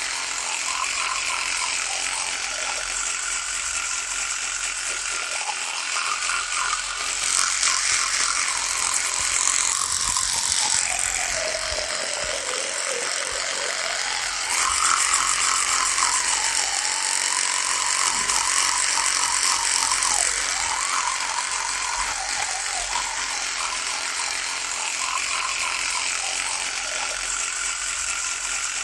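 Electric toothbrush buzzing steadily, with a rattly edge. About a third of the way in, its hum sags in pitch and climbs back a few seconds later, and it grows louder for a few seconds twice.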